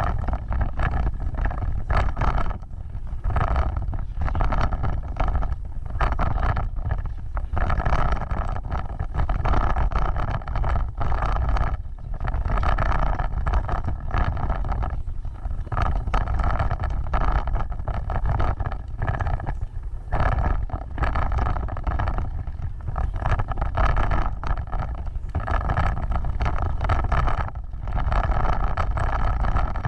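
Vehicle driving off-road: a steady rumble of engine and tyres with wind buffeting the microphone, broken by frequent short jolts and knocks.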